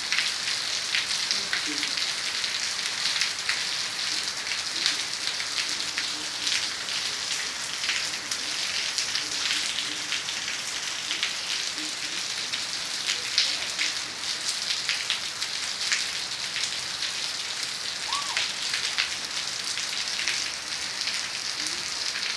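Heavy rain falling: a steady hiss of downpour with many individual drop strikes.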